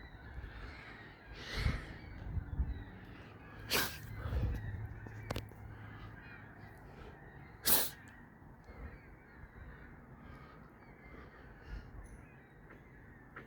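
A crow cawing a few separate times.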